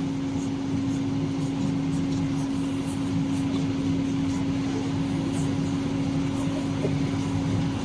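Tour boat's engine running with a steady drone and a constant hum.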